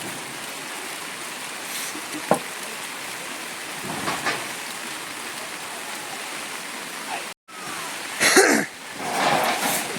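Steady heavy rain falling. A sharp knock about two seconds in, a brief dropout about seven seconds in, and louder sounds near the end.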